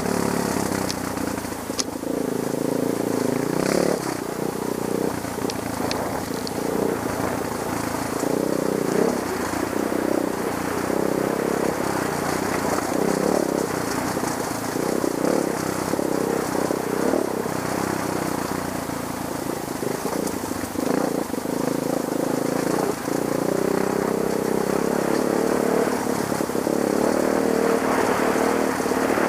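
Trail motorcycle engine running and revving, its pitch rising and falling repeatedly as the throttle is worked.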